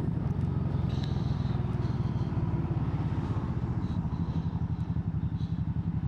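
Motorcycle engine running at low speed, its exhaust note pulsing quickly and evenly.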